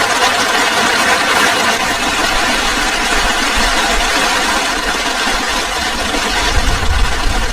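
Heavy rain pouring steadily, a dense hiss of drops. A low, gusty rumble joins in about two seconds in and is strongest near the end.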